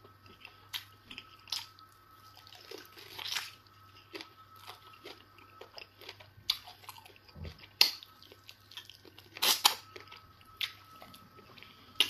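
Close-up mukbang eating sounds: wet chewing and lip-smacking on mouthfuls of eba and egusi soup, with fingers squeezing the soft dough. The sound is a string of short sticky smacks and clicks, with a few louder ones about three, eight and nine and a half seconds in.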